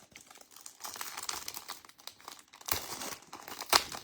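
Foil trading-card pack wrapper being torn open and crinkled by hand: an irregular crackle, with two sharper snaps near the end.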